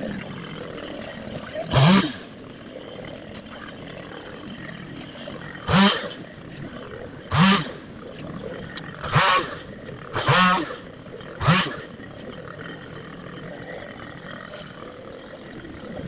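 Chainsaw engine running at idle, blipped to a brief rev six times, each rev a quick rising whine that drops back to idle.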